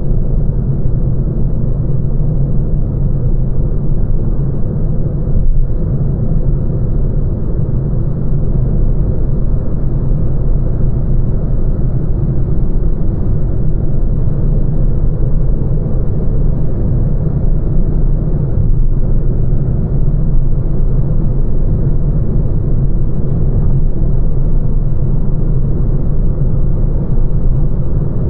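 Lancia Ypsilon hatchback on the move: a steady low rumble of road and running noise that holds even throughout.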